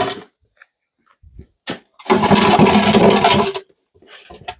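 Large metal cauldron fire pit being dragged across the ground: a brief scrape at the start, then a longer rough scrape lasting about a second and a half in the middle.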